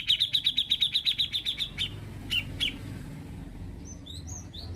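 Cucak jenggot (bulbul) singing: a rapid run of short, even chirps, about ten a second, that stops after a second and a half or so, then two single notes, and a few quick rising notes near the end.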